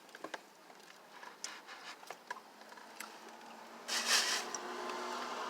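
A spoon clicking and scraping in a Blizzard cup while someone eats, with a louder scraping rub about four seconds in. A low steady hum comes in after it.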